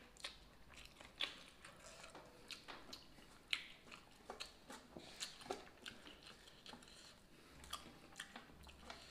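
Close-miked mouth sounds of a man chewing rice and fish: irregular short wet clicks and crunches, loudest about three and a half seconds in.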